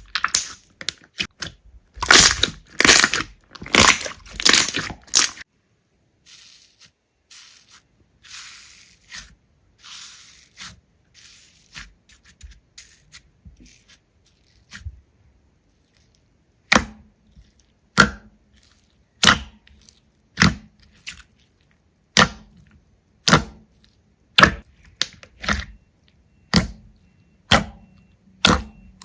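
Slime being squeezed and pressed by hands, with loud crackling snaps at first, then quieter fizzing crackles, then a run of sharp pops about once a second.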